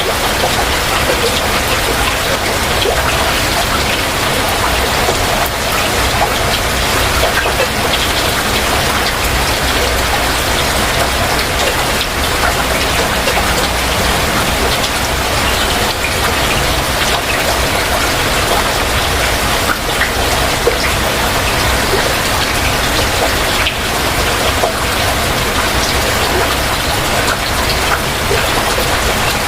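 Heavy rain falling steadily: a dense, even hiss with countless small drop ticks scattered through it.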